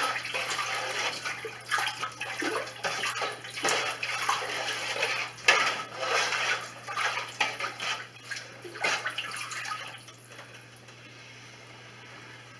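Spoon stirring chicken-soup ingredients in a pot: liquid sloshing, with irregular scrapes and knocks of the spoon against the pot, settling down about ten seconds in.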